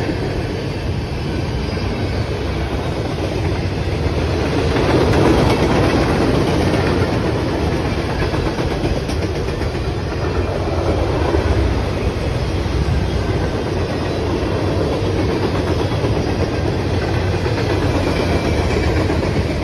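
CSX manifest freight train's cars rolling past at steady speed: a continuous rumble of steel wheels on the rails.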